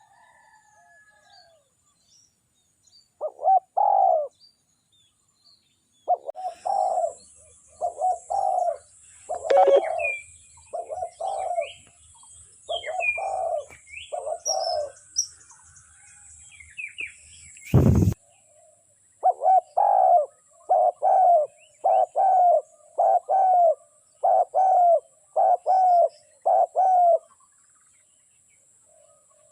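Spotted dove cooing in repeated phrases, ending in a run of about nine quick coos, while small songbirds chirp in between. One sharp knock sounds about two-thirds of the way through.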